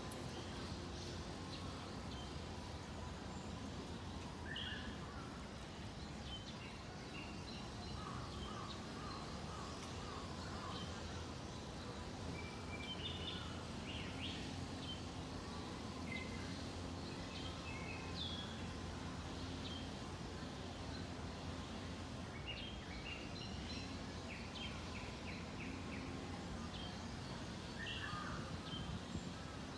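Outdoor background of a steady low hum with birds chirping here and there, including a short rapid trill about three-quarters of the way through.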